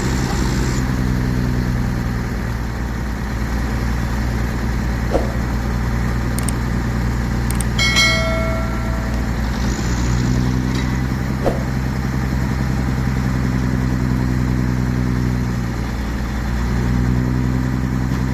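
Heavy tow truck's diesel engine running steadily near idle, its note shifting slightly about ten seconds in and again near sixteen seconds. A brief high-pitched tone sounds about eight seconds in, and there are a couple of light knocks.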